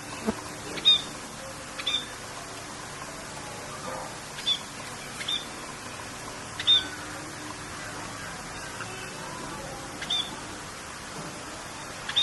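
Birds giving short, sharp high chirps, about seven of them at irregular intervals, over a steady rain hiss.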